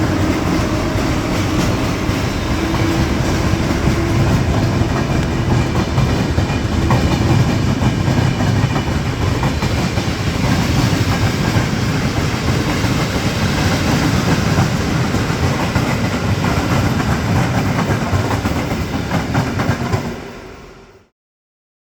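A train passing on the tracks, its wheels clattering rhythmically over the rail joints. The sound fades quickly and cuts off near the end.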